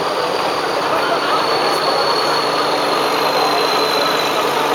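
Heavy truck's diesel engine running steadily, with a thin high whine that slowly falls in pitch.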